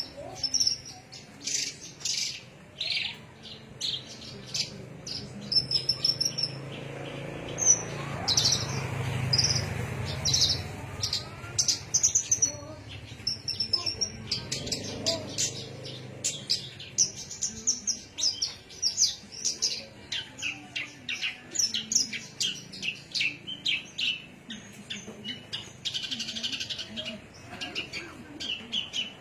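Songbird singing a rapid, varied run of short high chirps and trills. A low rumble rises beneath it for a few seconds around the middle.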